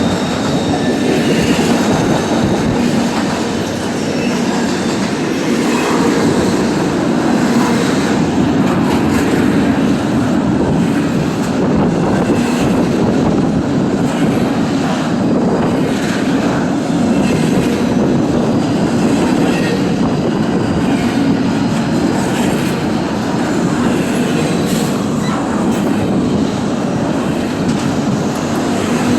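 Norfolk Southern intermodal freight train's cars rolling past in a steady loud rumble of steel wheels on rail, with scattered clicks over the rail joints.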